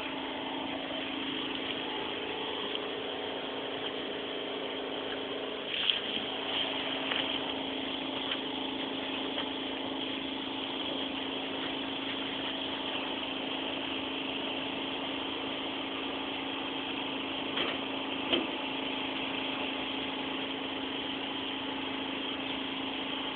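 A steady machine hum holding a constant low tone, with a couple of brief knocks about six seconds in and again near eighteen seconds.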